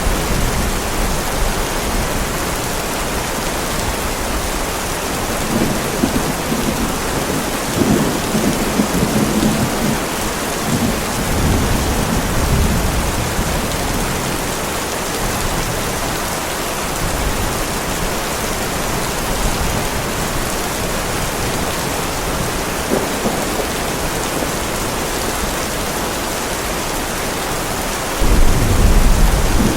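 Heavy rain falling steadily, with rolling thunder rumbling between about 6 and 13 seconds in and a louder clap of thunder breaking out near the end.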